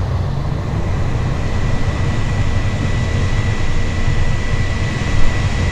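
Cessna Citation V Ultra's twin Pratt & Whitney JT15D-5D turbofans heard from the cockpit: a steady rumble with a thin high whine, growing slightly louder as takeoff power comes up. There is a brief thump about five seconds in.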